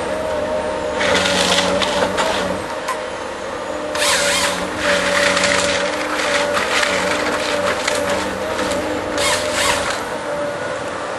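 Forestry harvester at work, its engine and hydraulics running steadily under about three bursts of cracking and splintering wood as the head saws the trunk and strips branches.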